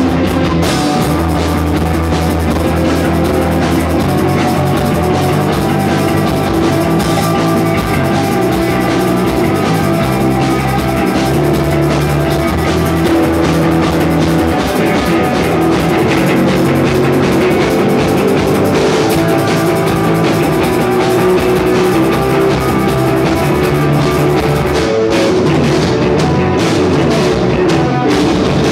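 Rock band playing, with drum kit and guitar, continuously and loud.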